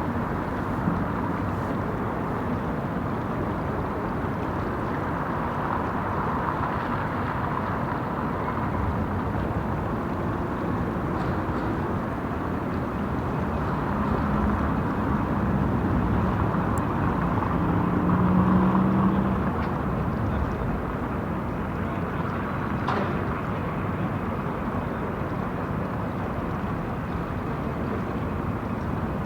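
Steady city street ambience with traffic; a vehicle passes and grows louder a little after the middle, then fades back.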